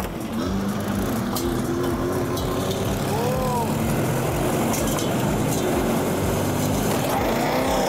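Car engine running hard at full throttle, driving a tire that spins up on an axle test rig; a steady drone with one brief rise and fall in pitch about three seconds in.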